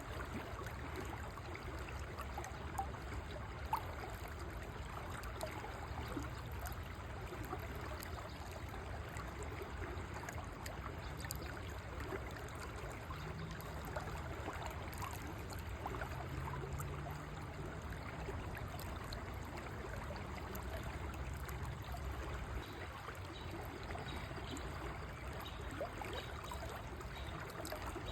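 A river flowing, a steady rushing stream with many small trickling splashes, and a couple of slightly louder splashes about three and four seconds in.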